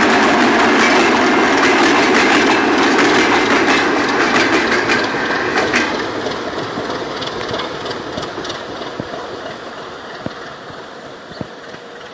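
ChME3 diesel shunting locomotive, with its six-cylinder diesel engine, moving on the track with rapid metallic clicks from the wheels and rails. The sound holds loud for about six seconds, then fades steadily as it moves away.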